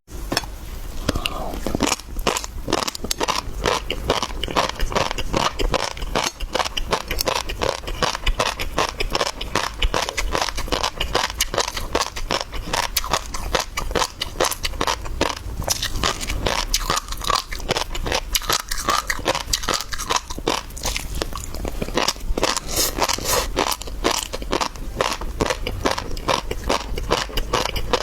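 Close-miked mukbang eating sounds: a person chewing and crunching seafood, with a dense, constant run of wet clicks, crackles and crunches.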